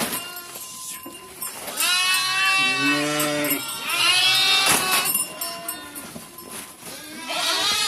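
Sheep and goats of a herd bleating: several long calls, one after another, the loudest about two and four seconds in, with another starting near the end.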